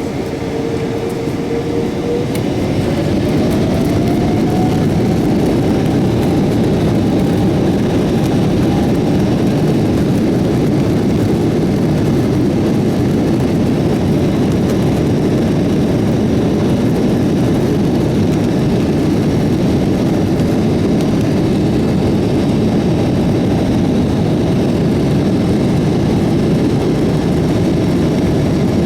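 Jet airliner's engines spooling up for the take-off roll, heard from inside the cabin: a whine that rises in pitch over the first few seconds as the sound grows louder, then a steady, loud rush of engine noise.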